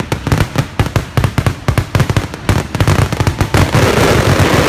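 Aerial fireworks going off in a rapid barrage, several bangs a second, with a dense crackling filling in from about three and a half seconds in.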